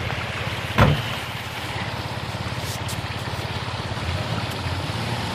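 Truck engine running steadily with an even low pulse, over a haze of water noise. A single loud knock comes about a second in.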